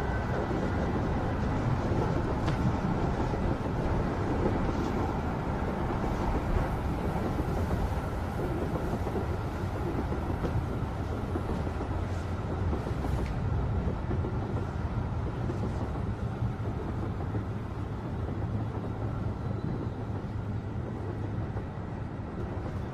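Subway train running: a steady rumble of the moving carriage heard from inside, with a few faint clicks.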